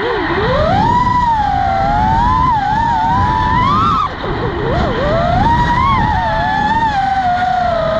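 Motors of a 6-inch FPV quadcopter whining, the pitch rising and falling with the throttle, with a sharp drop and climb about four seconds in. Wind rumbles on the microphone underneath.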